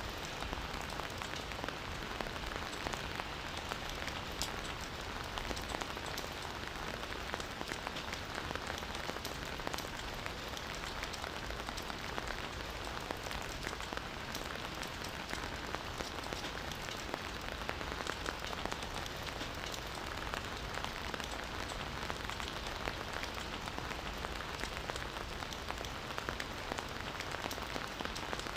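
Steady rain falling: a constant even hiss dotted with many separate drop ticks.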